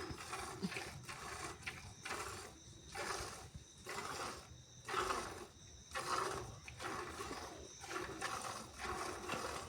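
Hand milking: streams of milk squirting into a container in regular hissing spurts, about one a second.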